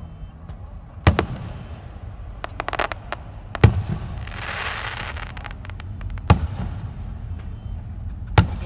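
Fireworks going off: four sharp bangs, spaced about two and a half seconds apart, with a run of crackling pops after the first and a hissing, sparkling burst after the second.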